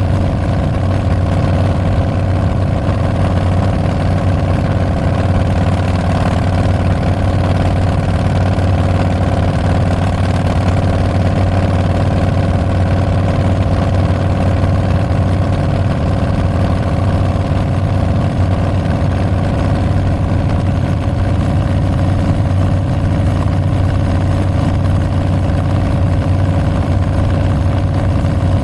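Harley-Davidson Street Bob's Milwaukee-Eight 114 V-twin running through Tabs Performance slip-on mufflers with Zombie baffles, a steady low exhaust note that holds the same pitch throughout with no revving.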